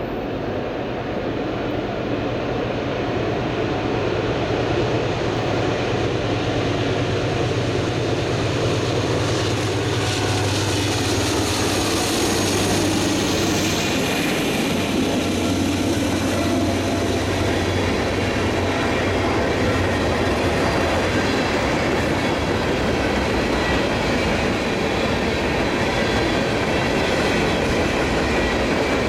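Two Norfolk Southern GE diesel-electric locomotives approach and pass with their engines running steadily under power. They are followed by empty covered hopper cars rolling by with wheel clatter over the rail joints and a faint wheel squeal. The engine drone fades about two-thirds of the way in, leaving the rolling noise of the cars.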